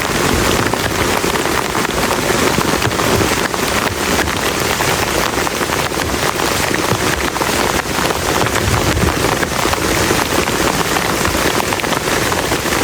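Heavy rain falling steadily, a dense patter of close drops hitting a surface over a constant rushing hiss.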